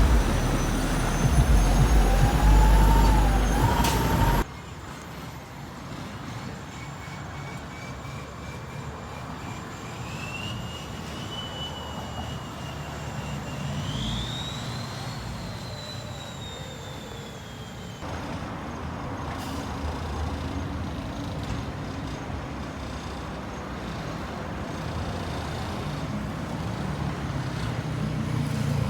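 Heavy trucks driving in a convoy, their engines rumbling under siren-like tones that glide up and down. The sound drops abruptly about four seconds in and changes again past halfway.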